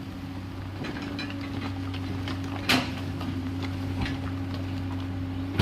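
Komatsu PC210LC excavator's diesel engine running steadily with a low, even hum, with a sharp click about halfway through and another at the end.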